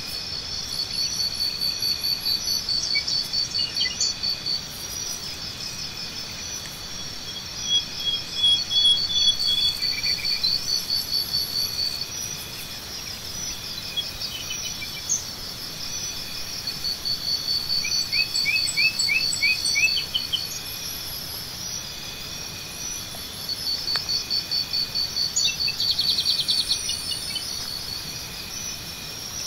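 Insects chirping in fast pulsed trains at several different pitches, overlapping and swelling and fading. Birds give short chirps now and then.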